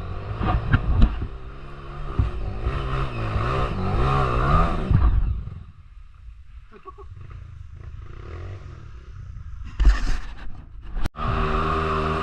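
Dirt bike engine revving up and down under load on a rough trail, with a few knocks and clatter. About halfway through the engine drops away and gets much quieter. After a sudden break near the end, an engine runs at a steady pitch.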